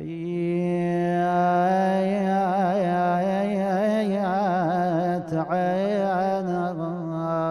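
A man's voice chanting a Husseini elegy (rithaa) without words, drawing out long melismatic notes that waver and turn in pitch. The chant breaks off briefly about five seconds in, then goes on.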